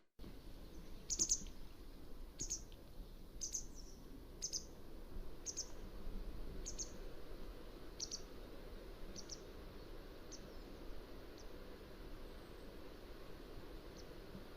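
Mountain wagtail giving short, high chirps about once a second, around ten in a row that grow fainter, then a few faint ones near the end, over a steady low background hiss. The sound cuts out for a moment right at the start.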